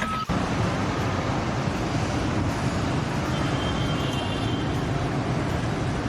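A steady vehicle engine rumble follows a reversing beep that cuts off just after the start.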